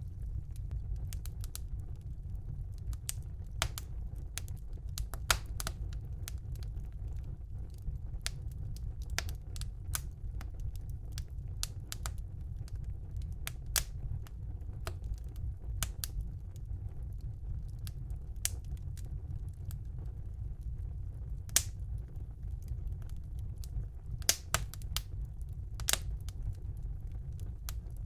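Fire burning in a fireplace, crackling with irregular sharp pops over a steady low rumble; two pops stand out as the loudest, about five seconds in and past the twenty-second mark.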